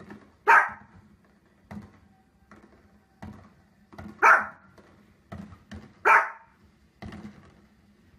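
A small long-haired dog barking sharply, with three loud barks about half a second, four seconds and six seconds in, and quieter short barks and sounds between them.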